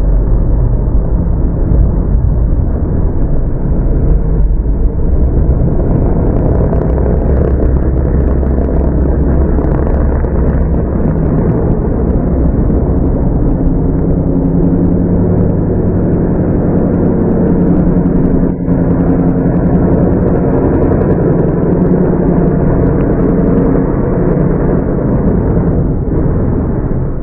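Loud, steady low rumble of a car engine running, its pitch drifting slowly up and down.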